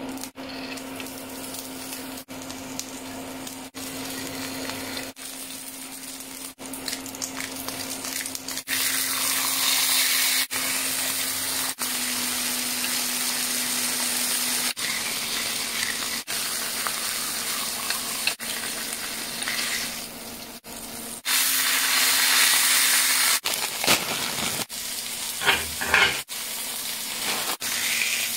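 Food frying and sizzling in a hot pan while it is stirred, over a faint steady hum. The sizzle gets louder about a third of the way in and again later, with a few clatters near the end.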